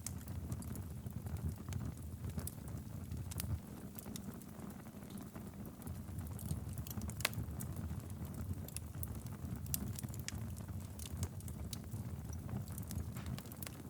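Wood fire burning in a fireplace: a steady low rumble of flames with irregular crackles and pops scattered throughout.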